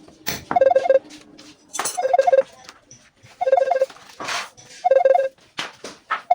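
An electronic beeping tune: a quick run of four pitched beeps that repeats about every second and a half, in the manner of a phone ringtone. Short, sharp hissing and clicking sounds fall between the runs.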